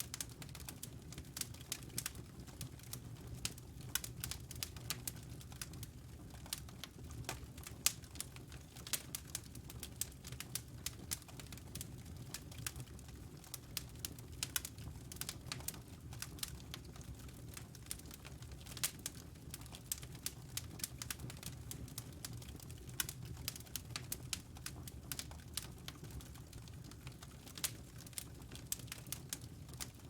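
Wood fire in a fireplace crackling, with irregular sharp pops and clicks over a low steady rumble.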